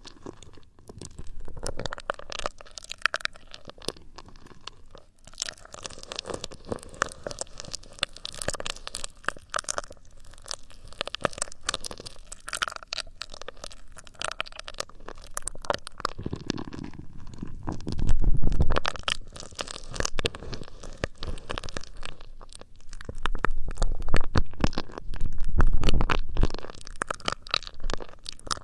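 Hands rubbing and massaging the ear of an ASMR binaural microphone, making close, dense crackling and scratching. A deep, muffled rumble swells up a little past the middle and again, longer, near the end.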